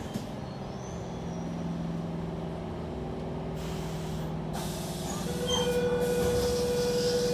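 Electric train running, heard from inside the carriage: a steady low hum, then about five seconds in a steady higher whine from the motors joins and the sound grows a little louder, as the train brakes into a station.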